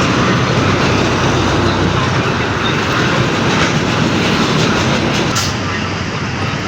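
Heavy diesel trucks on the move: a steady, loud rumble of engine and road noise, with a short high hiss about five seconds in.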